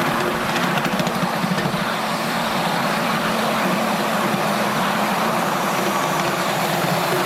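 Miniature live-steam locomotives of a double-headed train running on the track: a steady mechanical rumble with a hiss over it.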